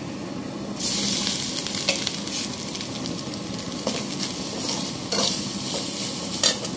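Grated coconut dropped into hot vanaspati in a steel pan, sizzling loudly from about a second in. A steel spoon stirs it, with a few sharp clicks against the pan.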